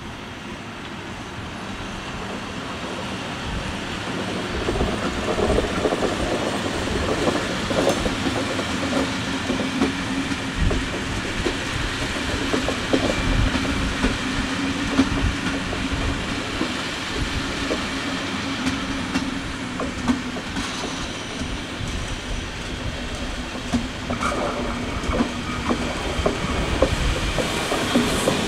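A train rolling along the track and getting louder over the first few seconds, with the clickety-clack of wheels over rail joints. A steady hum runs through the middle.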